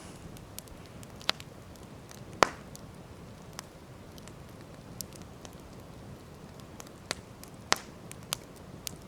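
Wood campfire crackling: irregular sharp pops and snaps over a steady low hiss. The loudest pop comes about two and a half seconds in, with another strong one near the end.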